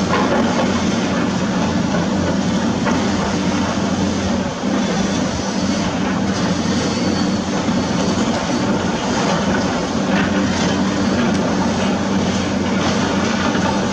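Heavy construction machinery working: the steady drone of a large diesel engine under continuous load, with a dense mechanical rumble over it.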